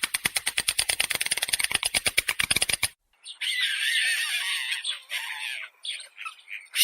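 Stork clattering its bill: a rapid, even run of dry clicks, about ten a second, that stops abruptly about three seconds in. After a short gap come a bird's high, wavering squawking calls.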